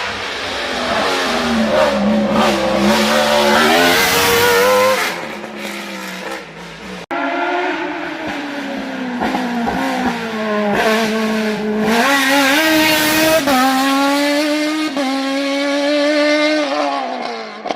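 Competition car's engine revved hard, its note climbing and dropping again and again as it is driven through the gears, with a sudden break about seven seconds in.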